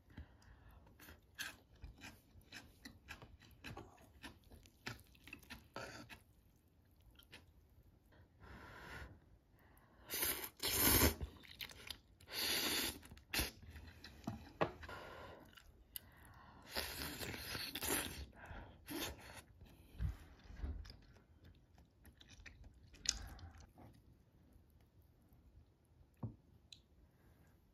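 A person eating close to the microphone: steady chewing and crunching of food, such as crisp seasoned radish salad, with several louder bursts around the middle.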